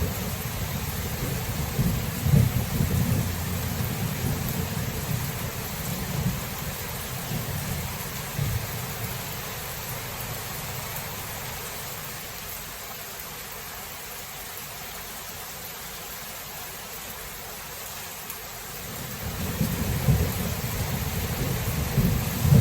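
Thunderstorm: steady rain hiss under rolling thunder. The thunder dies away about halfway through and rumbles back in near the end.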